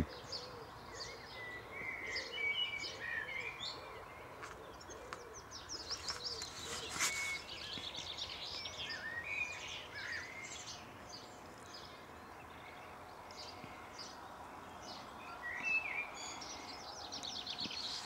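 Several songbirds chirping and singing, short calls and trills scattered throughout over a faint, steady background of outdoor noise.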